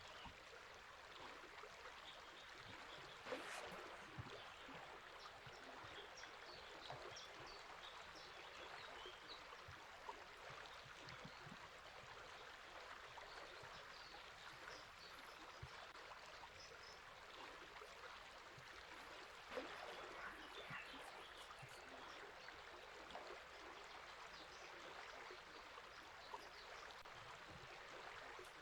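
River water flowing and babbling faintly and steadily, with faint scattered bird chirps over it. Twice comes a brief, louder gurgle of water.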